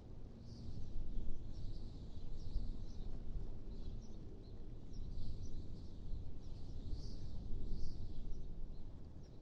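Wind blowing in gusts, a low rumble that swells and eases every few seconds, with small birds chirping now and then above it.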